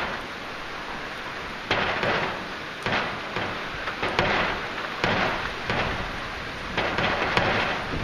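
Heavy rain pouring down, a steady hiss that swells in repeated gusty surges every second or so.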